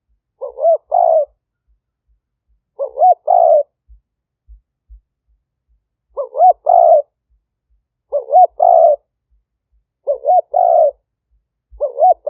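Spotted dove cooing its song: six phrases about two seconds apart, each a short lead-in note followed by a longer coo.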